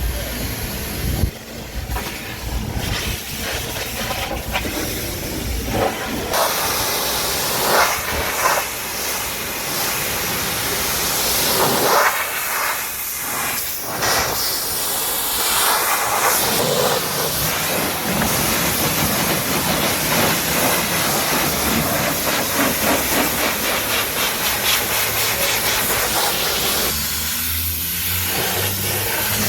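Pressure washer spraying water onto a car: a loud, steady hiss of spray that changes in tone every few seconds as the jet moves, with a low hum at the start and near the end.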